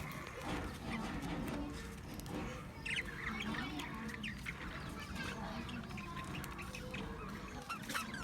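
Budgerigars chirping: scattered short chirps, with a quick cluster of them about three seconds in.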